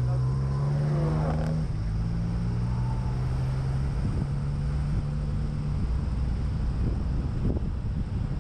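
Car engine running at low, steady revs while the car rolls slowly down a pit lane, a low hum that turns rougher and more uneven about halfway through.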